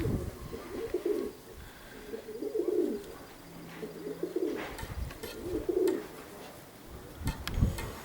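Domestic pigeons cooing: a run of low coos every second or two, with a few dull low thumps near the end.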